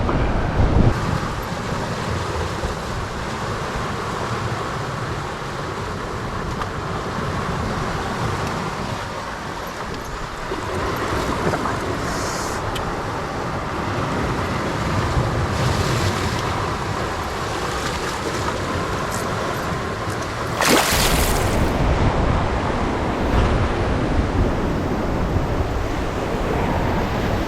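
Sea waves washing against the rocks with wind buffeting the microphone, a steady rushing noise broken by a brief louder surge about three-quarters of the way through.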